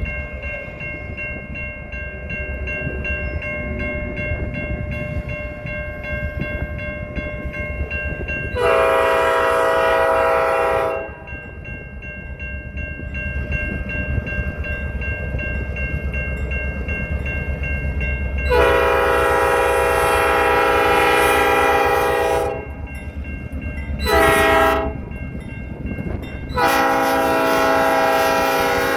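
Train horn sounding the grade-crossing pattern of long, long, short, long blasts over a steady low rumble of the passing train and wind.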